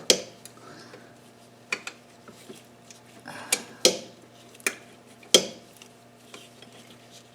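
Metal hand tools and hardware clinking: several sharp separate clicks spread out, with a short rattle about three and a half seconds in.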